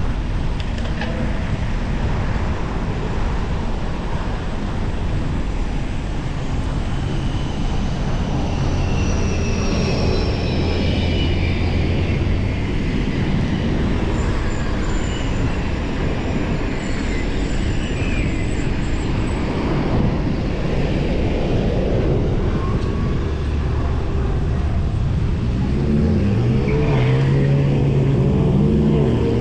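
Road traffic heard from a moving bicycle: a steady rumble of passing cars and road noise. Near the end, a vehicle's engine rises in pitch as it accelerates past.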